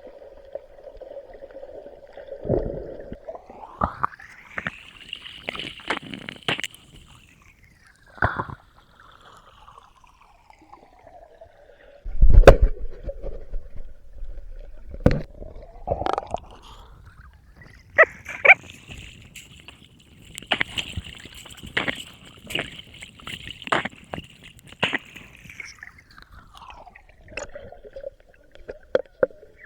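Metal detector's audio tone: a steady hum that twice glides up to a high whine, holds for several seconds and slides back down, the sign of the search coil passing over a metal target. Water sloshes and gurgles around it, with scattered knocks and one loud thump about twelve seconds in.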